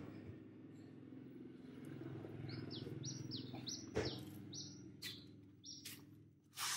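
A small bird chirping over and over in short, quick, falling notes, with a few sharp clicks between them and a low steady hum underneath.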